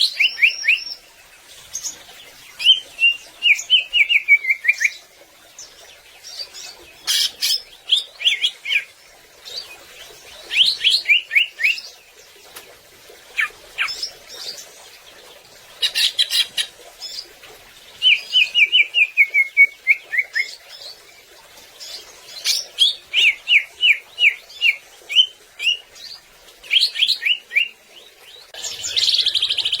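Green leafbird (cucak ijo) singing: short phrases of quick chirping notes, often falling runs, repeated every couple of seconds.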